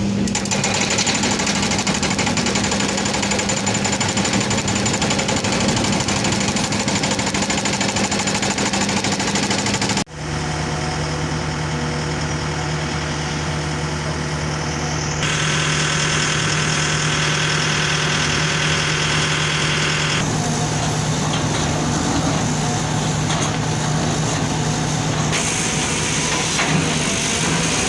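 Excavator diesel engines running steadily. The sound comes as several short clips joined with abrupt cuts, the engine note shifting lower at the first cut.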